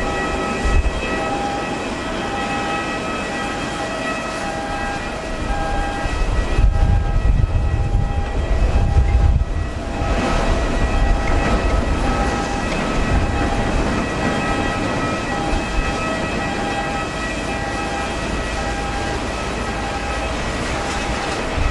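Jet airliner engines running with a steady high whine, under strong wind buffeting the microphone, with the wind rumble strongest from about six to ten seconds in.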